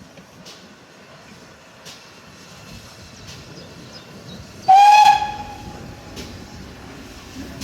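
Steam locomotive whistle giving one short, loud blast about two-thirds of the way in, over a steady low rumble.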